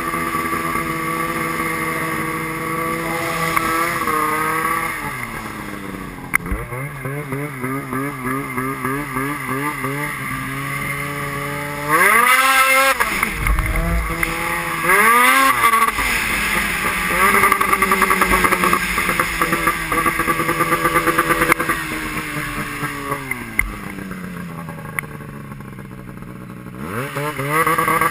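Motorcycle engine running under way, its pitch rising and falling with the throttle. It drops off a few seconds in, revs up sharply twice around twelve and fifteen seconds in, settles, falls away again past twenty seconds, and climbs steeply near the end.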